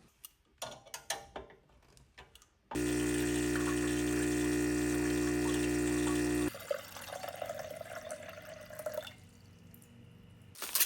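Gaggia Classic espresso machine's vibratory pump buzzing steadily for about four seconds, pushing water through while the over-pressure valve is set to 9 bar by measuring the flow. After it stops, a fainter hiss of water runs on for a few seconds. A few light clicks come before the pump starts.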